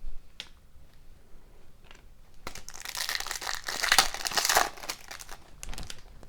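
Foil trading-card pack wrapper crinkling and crumpling, loudest for about two seconds in the middle, with a few light clicks before it.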